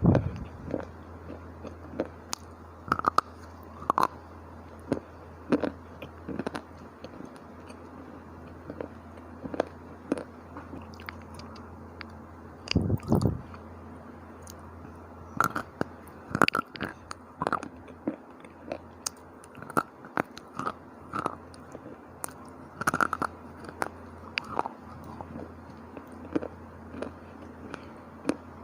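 Dry, hard clay and slate chips being bitten and crunched close to the microphone: irregular sharp cracks, sometimes in quick clusters, with pauses between bites. A steady low hum runs underneath.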